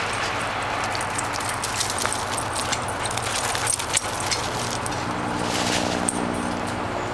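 Firefighting helicopter in flight: a steady wash of rotor noise, with an even engine hum coming in about five seconds in.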